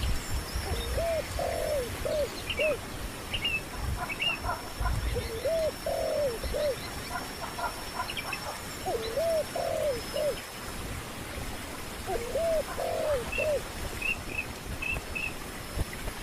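A dove cooing: a low phrase of about four notes, repeated every three to four seconds, with a few thin, high bird chirps between the phrases.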